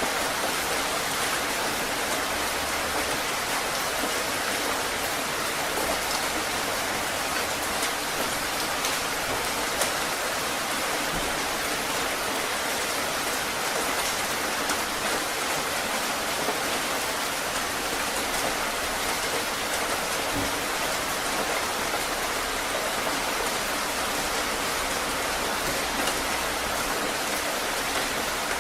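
Heavy rain falling steadily, an even dense hiss with a few sharper drop ticks here and there.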